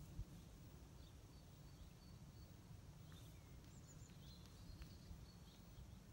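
Near silence: faint outdoor background hum, with a few faint, short bird chirps about halfway through.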